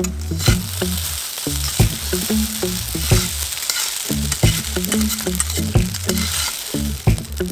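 Food sizzling steadily in an iron skillet over a campfire, over background music with a stepping bass line and a regular beat.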